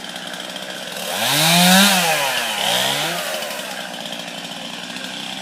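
Chainsaw revving up and dropping back twice in quick succession, about a second in, over steady background noise. It is cutting into a storm-split tree that is being taken down.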